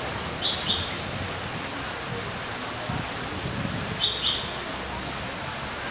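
A bird gives two short, high double chirps, one about half a second in and one about four seconds in, over a steady background hiss.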